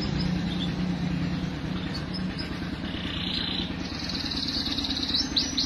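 Canaries chirping, with short trills from about halfway on and a few quick rising chirps near the end, over a steady low hum.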